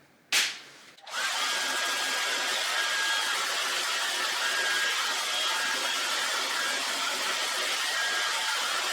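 Handheld heat gun switched on about a second in and running steadily: an even fan-and-air rush with a faint thin whine. A brief sharp sound comes just before it starts.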